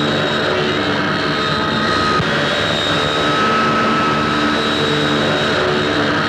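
Propeller aircraft engine droning steadily, with a thin high whine that drops out and returns.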